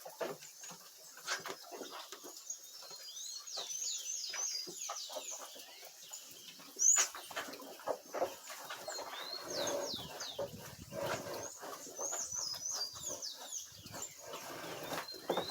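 Small birds chirping over and over, short quick downward chirps in busy runs, with scattered knocks and one sharp click about seven seconds in.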